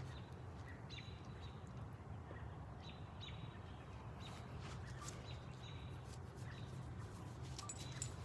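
Faint outdoor ambience: small birds chirping in short high notes every second or two over a steady low rumble, with a few sharp high chirps near the end.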